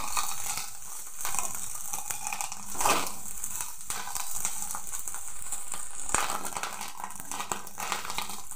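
Fish roe frying in oil in a kadai, sizzling steadily, while a wooden spatula stirs and scrapes it around the pan, with louder scrapes about a second in and near three seconds.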